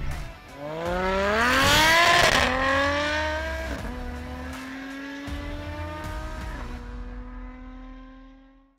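Lotus Exige V6's supercharged 3.5-litre V6, tuned to 490 PS, accelerating hard away, its pitch climbing through each gear with three quick upshifts from the dual-clutch gearbox conversion, roughly two and a half, four and six and a half seconds in. Loudest about two seconds in, then fading out as the car pulls away.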